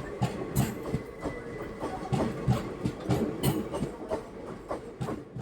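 Passenger express train running at speed, heard from on board: its wheels clack over the rail joints about three or four times a second over a steady rumble. The sound cuts off suddenly at the very end.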